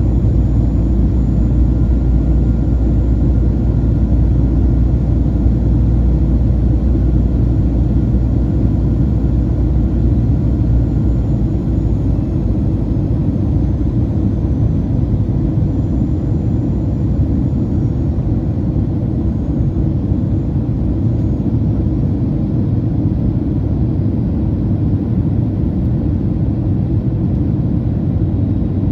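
Steady cabin noise inside a Boeing 737-800 in flight: a deep rumble and rush from its CFM56 jet engines and the airflow over the fuselage. The low rumble eases slightly about twelve seconds in.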